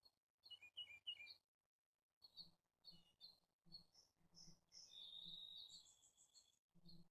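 Faint birdsong: clusters of short high chirps, then a longer trilled phrase about five seconds in.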